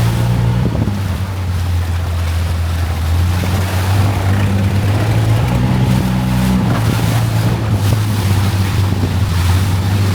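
Longtail boat engine running steadily at a deep, even hum, over a steady hiss of water and wind.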